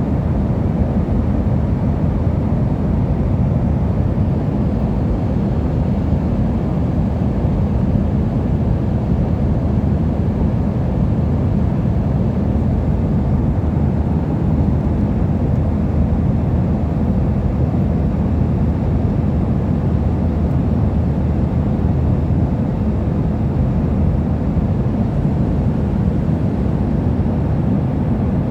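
Steady low cabin noise of an airliner in flight, heard from inside the cabin, with a faint steady hum over the engine and airflow noise.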